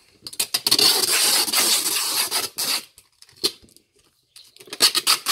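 Rustling and scraping from a lidded cardboard box holding slips of paper being handled, in two spells with a short lull between them.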